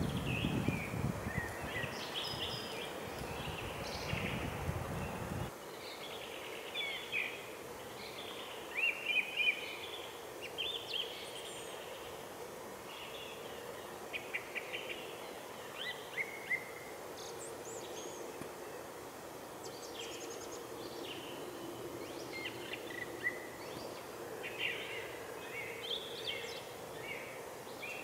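Several songbirds singing and calling in short chirps and trills, with a low rumble on the microphone for the first five seconds or so that cuts off suddenly.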